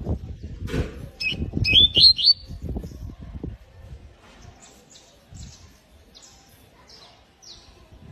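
Canary calling: a quick run of loud, rising chirps about a second in, then a string of short, high, fainter chirps. Low thumps sound under the chirps in the first half.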